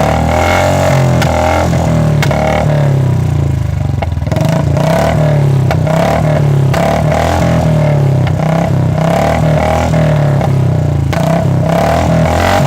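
Royal Enfield motorcycle exhaust running loud and steady, with sharp cracks and pops scattered through it, the 'patakha' firecracker-like exhaust popping.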